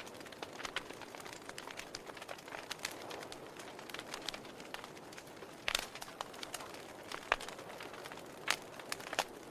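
Wood fire in a fireplace crackling: a soft steady hiss of flame with irregular sharp pops and snaps, a few louder pops in the second half.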